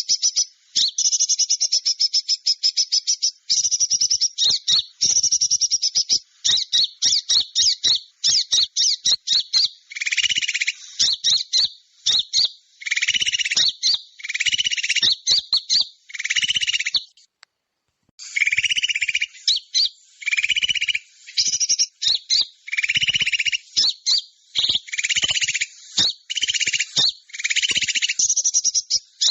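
Small songbirds' calls played as a bird lure: dense, rapid, high chattering trills repeating in bursts. From about a third of the way in, a lower buzzy note joins some bursts, and the calls cut out briefly a little past halfway.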